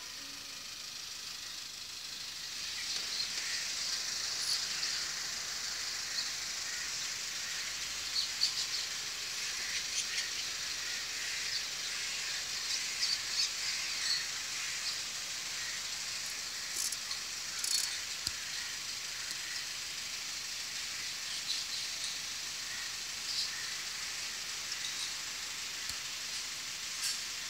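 Birds chirping in short scattered calls over a steady high hiss of outdoor background noise.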